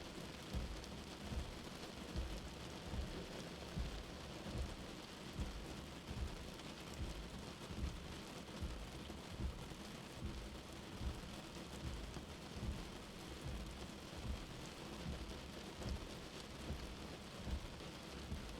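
Steady rain heard from indoors, with a soft low heartbeat thumping evenly about every 0.8 seconds, roughly 75 beats a minute.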